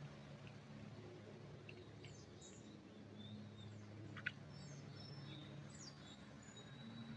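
Faint forest birdsong: scattered short high chirps and brief whistles from several birds over a steady low hum, with one sharp click about four seconds in.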